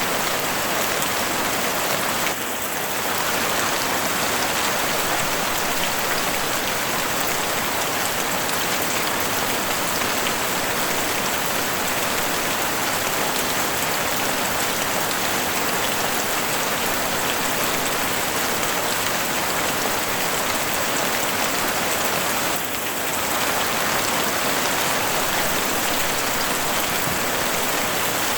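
Heavy rain falling steadily on a house roof: a dense, even hiss that softens briefly twice, a couple of seconds in and again about three-quarters of the way through.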